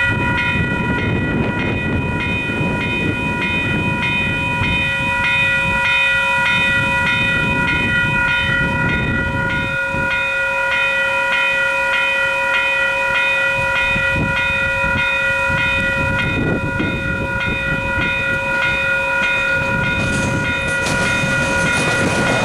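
Western Cullen Hayes electronic level-crossing bells ringing steadily on their quiet, slower-ring setting, about two strikes a second, while an electric commuter train passes through the crossing, its wheels clacking over the rails.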